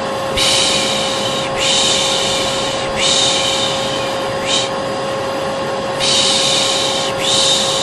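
A vacuum cleaner motor runs with a steady hum and whine while a person shushes 'shhh' over it again and again, each shush lasting about a second with short gaps between. This is the pış pış shushing used to soothe a baby, paired with vacuum noise.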